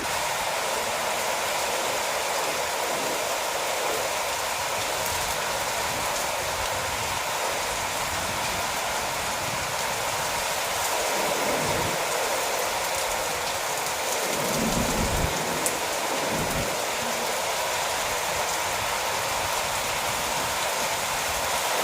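Heavy rain pouring steadily, with a few brief low rumbles partway through.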